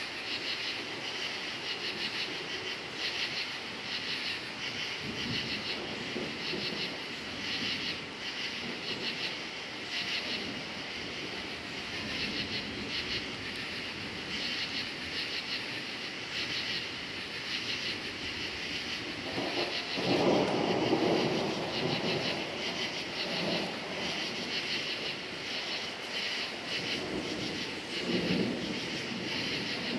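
Crickets chirping steadily in a high pulsing chorus. About two-thirds of the way through, a rumble of thunder starts suddenly and rolls for a few seconds, followed by fainter rumbles near the end.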